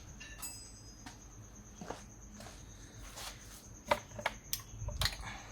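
Scattered light metallic clicks and taps of an 8 mm spanner being fitted onto a bolt in a car's engine bay, with a few sharper clinks about four and five seconds in.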